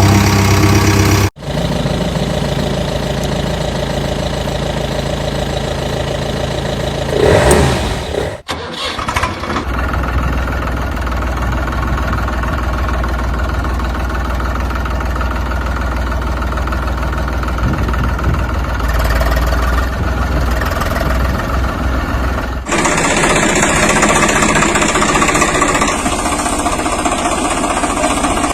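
Tractor engine running steadily in several spliced stretches that cut abruptly from one to the next, each with a different tone, and a loud surge about seven seconds in.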